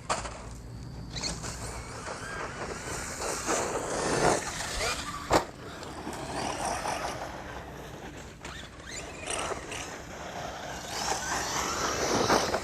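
Electric 1/8-scale Thunder Tiger MT4 G3 RC monster truck driving over rough ground: its motor whines up and down as the throttle changes, over a rough scrabble of tyres on dirt. There is a single sharp knock a little over five seconds in, from the truck hitting or landing.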